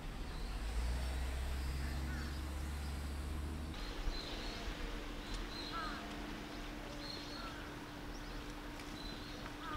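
Outdoor ambience with short bird chirps every second or two over a low rumble; about four seconds in the rumble drops away at a cut and a faint steady hum carries on under the chirps.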